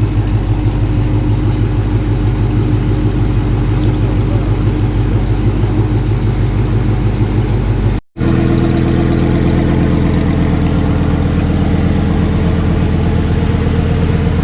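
Car engine idling steadily with an even, pulsing rumble. About eight seconds in, the sound drops out for a moment and comes back as a different idling engine note.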